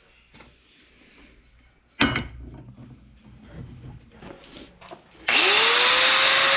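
A single sharp metal clank with a short ring, then light knocks of handling. About five seconds in an electric power tool starts, its motor whine rising quickly and then holding steady under a loud rushing noise.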